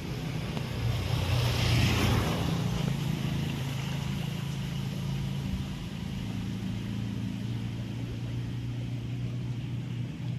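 A small engine running steadily, with a louder rushing swell about one to two seconds in.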